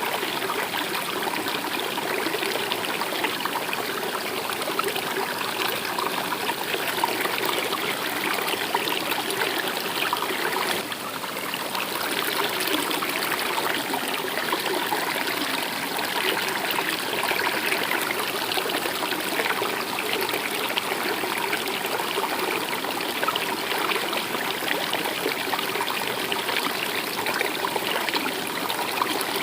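Stream water running and trickling steadily, with a brief slight drop in level about eleven seconds in.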